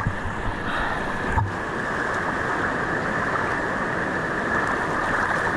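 Whitewater rapids rushing steadily around a kayak, with one low thump about a second and a half in.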